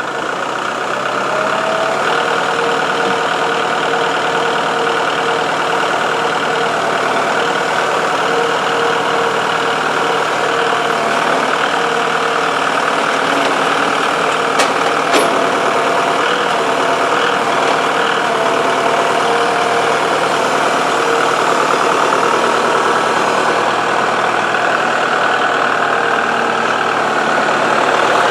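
Kubota tractor's diesel engine running steadily, with one sharp click about halfway through.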